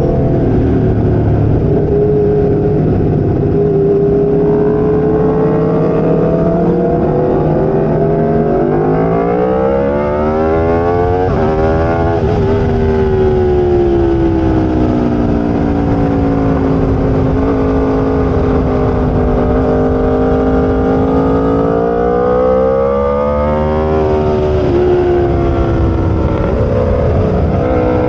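Aprilia RSV4 V4 superbike engine at racing speed, its pitch climbing hard for a few seconds, then dropping and easing down as the bike slows, then climbing and dropping again near the end.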